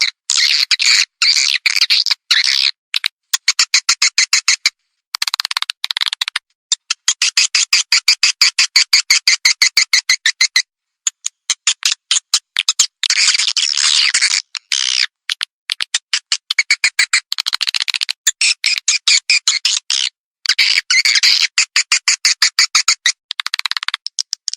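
Recorded swiftlet calls played as a lure for edible-nest swiftlets: rapid trains of high chirps and clicks, about eight a second, in runs of one to several seconds with short breaks.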